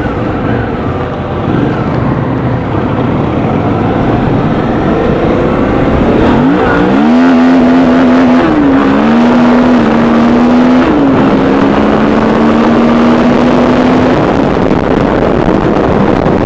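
Suzuki V-Strom 650's 645 cc V-twin engine accelerating hard. The revs climb steeply about six and a half seconds in, then dip at three quick upshifts about a second apart, and afterwards pull fairly steadily.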